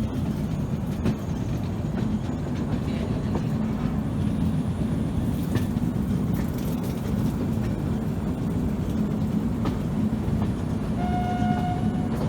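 Passenger train running: a steady low rumble with the clickety-clack of wheels over rail joints. A short, steady, high tone sounds for under a second near the end.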